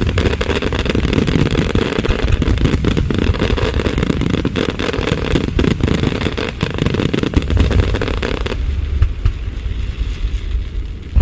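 Fireworks going off: a dense run of crackles over a continuous low rumble of bursts. About eight and a half seconds in, the crackling stops abruptly and the low booming goes on.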